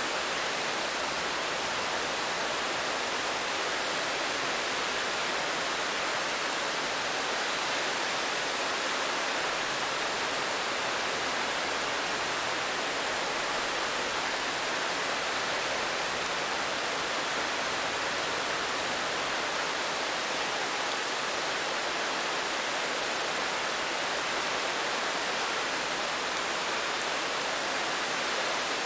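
Steady rain falling: an even, unbroken hiss with no single drops or other sounds standing out.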